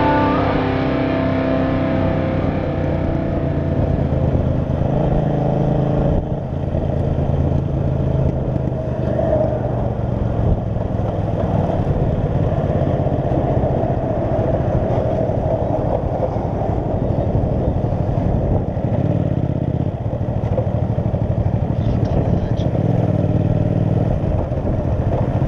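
Kasinski Mirage 250's small V-twin running steadily as the motorcycle rides along the road, with dense road and air noise. A music track fades out in the first couple of seconds.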